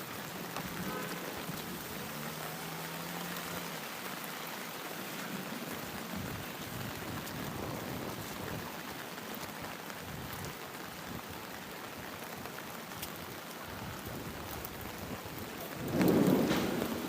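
Rain falling steadily as an even hiss. Near the end comes a sudden loud rumble lasting about a second.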